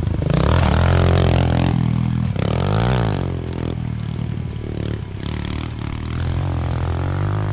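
Pit bike engine revving as it is ridden, its pitch dropping and then climbing again about three seconds in, with background music.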